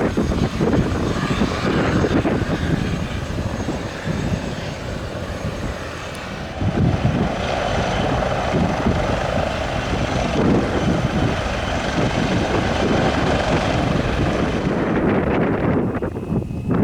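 Aérospatiale AS332L1 Super Puma helicopter running: twin turboshaft engines and main rotor, with a dense rapid beat in the low end under a broad rushing noise. Near the end the high hiss fades and a thin high whine comes in, rising slightly in pitch.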